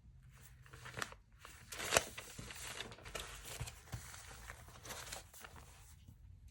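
Paper being handled close by, rustling and crinkling, with a sharp snap about two seconds in.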